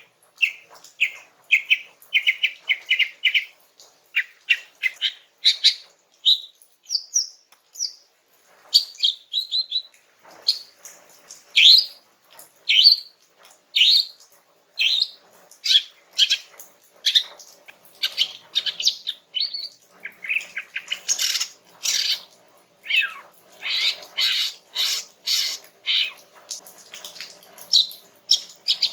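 Female greater green leafbird (cucak ijo) calling: a string of short, high chirps and quick trills with brief pauses between them, coming thicker in the second half. It is a female's call for drawing a male to answer.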